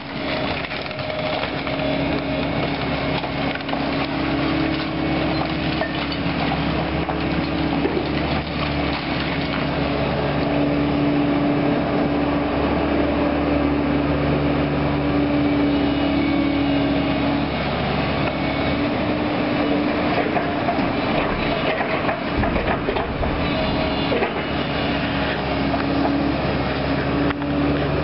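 Diesel excavator running steadily, its engine note shifting a little as the hydraulics work, while wood debris cracks, splinters and crunches in its bucket.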